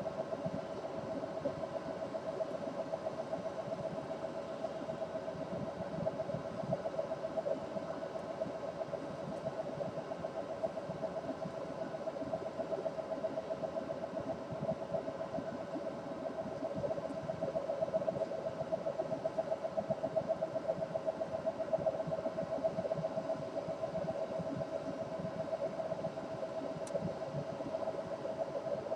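A steady machine hum, a rapidly pulsing mid-pitched drone that holds unchanged throughout.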